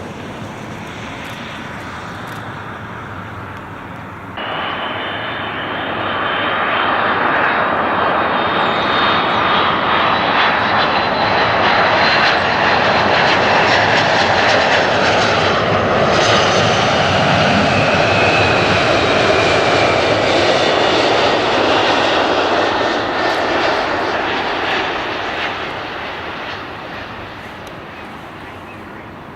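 Airliner's jet engines passing: the roar swells sharply about four seconds in, stays loud with a high whine for most of the time, then fades away near the end.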